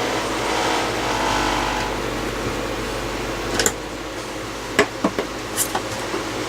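A steady mechanical hum, with a few light clicks and knocks about halfway through and again near the end.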